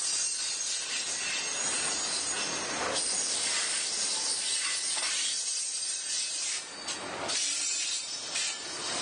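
Freight train rolling past, its wheels on the rails making a steady hiss.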